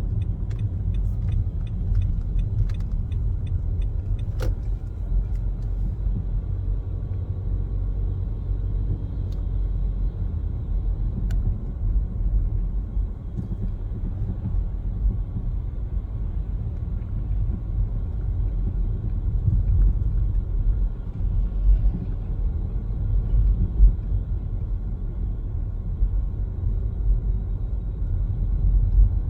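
Car driving on city streets: steady low tyre and engine rumble. Faint regular ticks, about two a second, run through the first few seconds, and there is a single sharper click about four seconds in.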